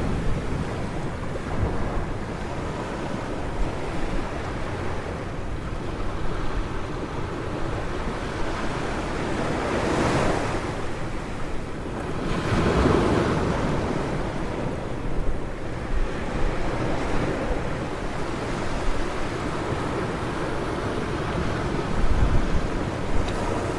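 Ocean surf breaking and washing up a beach: a continuous rush of water that swells with bigger waves about ten and thirteen seconds in, with wind buffeting the microphone.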